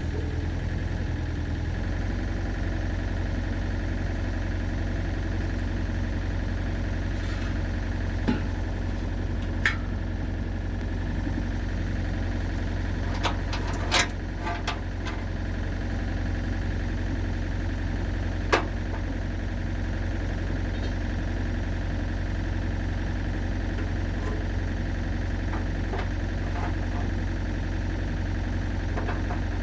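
Excavator's diesel engine idling steadily, with a few sharp metallic clanks over it.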